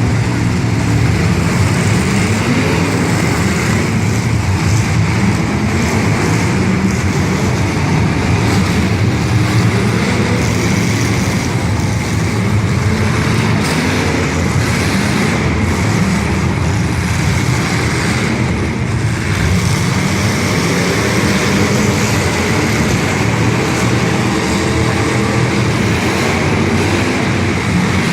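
Demolition derby cars' engines running loud and steady, several at once.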